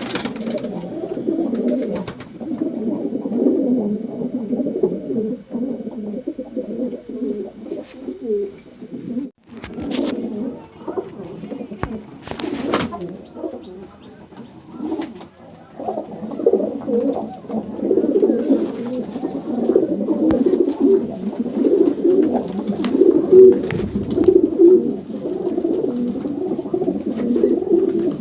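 A flock of racing pigeons cooing together, a continuous overlapping burble of many birds. There is a brief break about 9 seconds in, and a few sharp clicks around 10 and 13 seconds.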